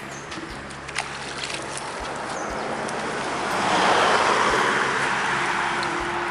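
Water sloshing and rushing, swelling to its loudest about four seconds in and then easing off.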